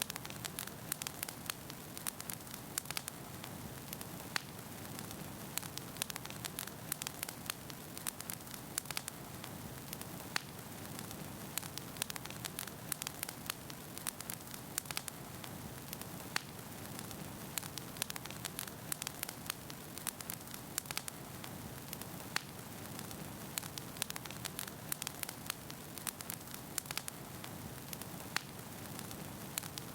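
Wood fire burning in a fireplace: a steady hiss with frequent sharp, irregular pops and crackles from the burning logs.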